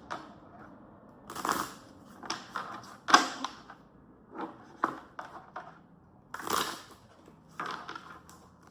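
Tarot deck being shuffled by hand: irregular rustling, slapping strokes of the cards, about one a second.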